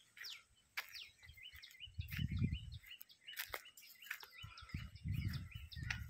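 Small birds chirping over and over in short, quick, high notes and falling whistles. A low muffled rumble comes about two seconds in and again near the end.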